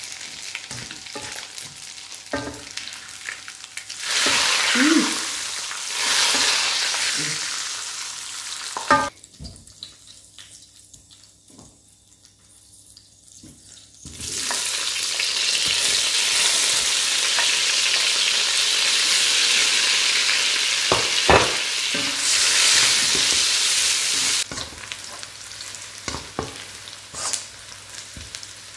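Food frying and sizzling in a pan as it is stirred, with short knocks of the utensil against the pan. The sizzle swells loudly about four seconds in, drops away almost to quiet for a few seconds in the middle, rises again for about ten seconds, then settles to a lower sizzle near the end.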